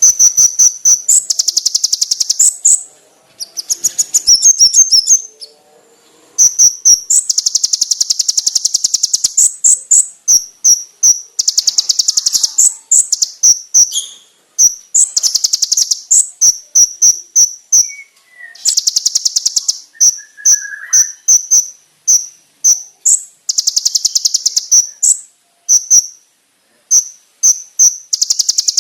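Kolibri ninja sunbird singing: loud, high, rapid trills lasting a second or two, alternating with runs of sharp, separate chipping notes.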